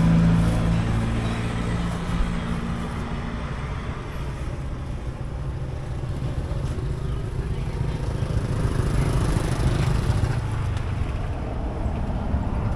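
A motor vehicle's engine running close by with a steady hum that fades after about three seconds, leaving a low rumble of road traffic.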